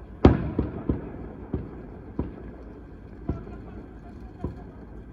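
Fireworks going off: one loud bang about a quarter second in with a trailing echo, then about six fainter bangs at irregular intervals, over a steady low background rumble.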